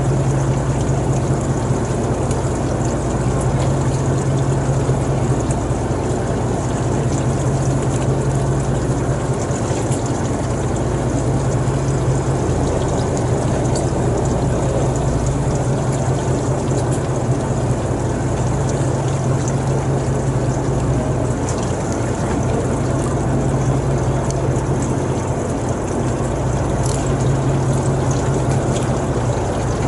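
Steady engine drone, a constant low hum over rushing water, as from a motorboat under way.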